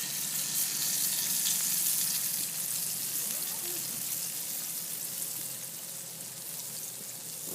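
Cornmeal-coated fish frying in hot grease, a steady sizzle that eases off slightly toward the end.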